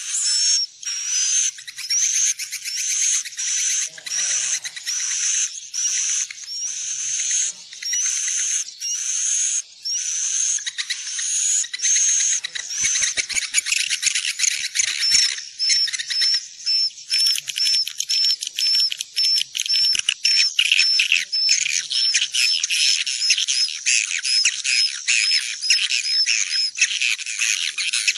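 Edible-nest swiftlet calling-sound recording: dense, high-pitched twittering and rapidly repeated chirps. About halfway through, the pattern shifts to short, quick notes at about two a second. A thin steady high tone runs underneath, and the recording is of the lure kind used to call swiftlets in to roost in a nest house.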